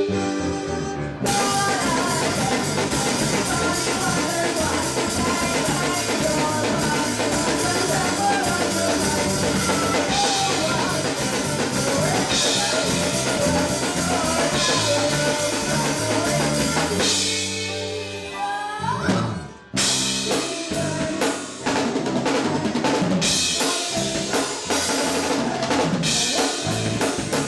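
Band music with a drum kit keeping a steady beat. About two-thirds of the way through, the drums drop out for a moment of sliding, gliding notes, then the full band comes back in.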